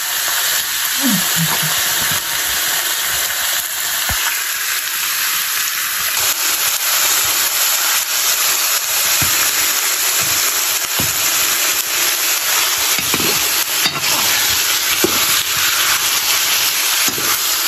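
Chicken pieces frying in hot oil in a metal wok, a steady sizzle, with a steel ladle scraping and knocking against the pan now and then as the meat is stirred.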